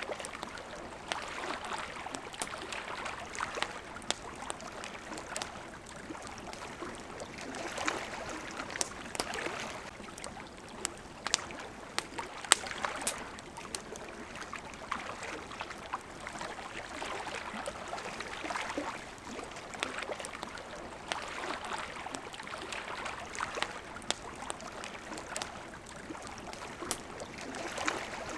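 Small waves lapping and washing at the water's edge, swelling and fading every few seconds, with the sharp pops and crackles of a wood campfire on top, one pop standing out louder about halfway through.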